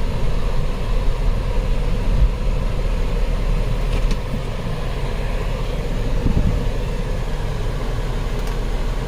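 2010 Chrysler Sebring's 2.7-litre V6 running steadily, a low rumble that eases a little about four seconds in.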